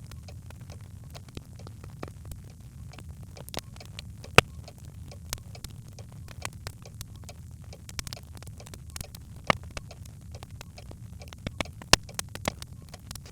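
Birchwood fire burning in a hearth: a steady low rumble of flames with irregular crackles and pops, a few sharper pops standing out about four, nine and twelve seconds in.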